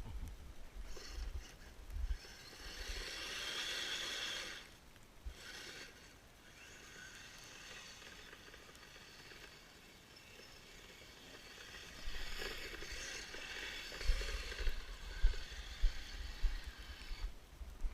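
Kyosho Blizzard FR RC snowcat's electric motor whining and its tracks scraping through snow in short spells of throttle. Low rumbles and several sharp knocks come near the end.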